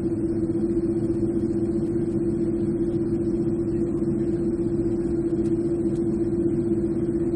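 Airliner engine noise heard inside the cabin: a steady drone with a constant hum over a low rumble and a faint high whine.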